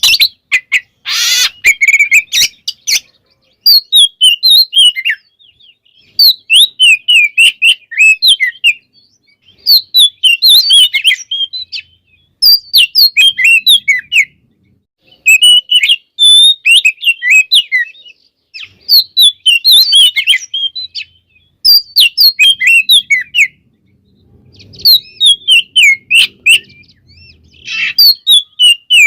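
Oriental magpie-robin (kacer) singing loudly in repeated phrases of rapid, varied whistled notes. Each phrase lasts one to two seconds and is followed by a short pause. A brief harsh note comes about a second in.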